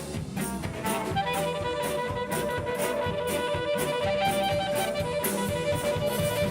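A rock band playing an instrumental break live: drum kit keeping a steady beat, with a lead instrument coming in about a second in on long held notes.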